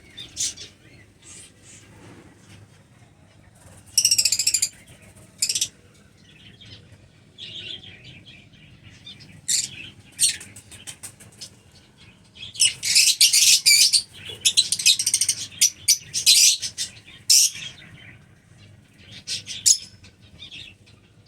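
Lovebirds chirping and chattering in short, sharp, high-pitched bursts, with a loud run of rapid chatter a little past the middle.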